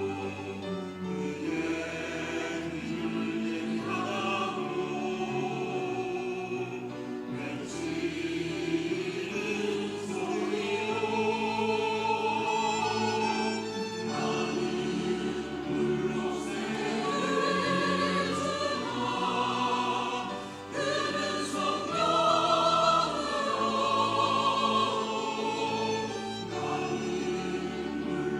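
Church choir singing an anthem in parts, over held low bass notes that change every second or two.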